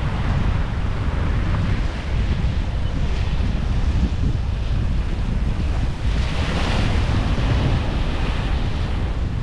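Wind buffeting the microphone over the steady wash of ocean surf on a beach, with a louder rush of surf about six seconds in.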